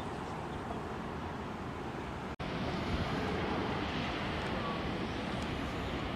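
Steady rushing noise of jet aircraft engines mixed with wind on the microphone. It cuts out for an instant about two and a half seconds in, then resumes a little louder.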